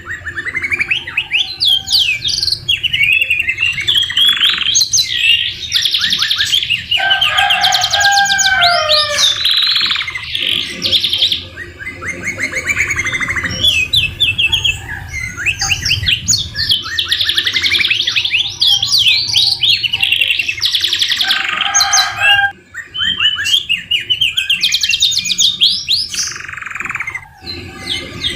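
Domestic canary singing a long, continuous song of fast trills, rolls and sweeping whistles, filled with white-rumped shama (murai batu) phrases, with short breaks between phrases.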